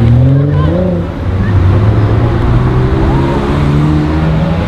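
Sports car engine revving: the pitch rises over the first second, then the engine runs on with another slow climb in pitch near the end.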